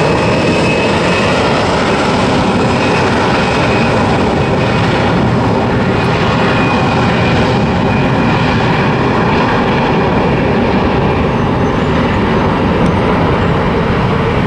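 Frontier Airlines jet airliner taking off, its engines at takeoff power: a loud, steady roar with a high whine over it.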